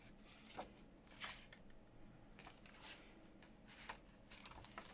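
Faint rustling of paper journal pages and a paper pocket being handled and shuffled, in several brief soft rustles.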